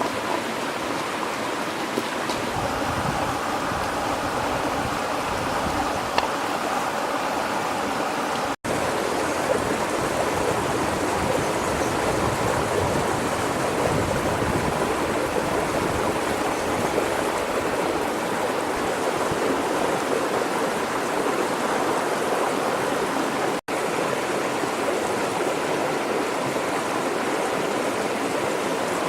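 Steady rush of flowing river water, broken twice by a split-second dropout.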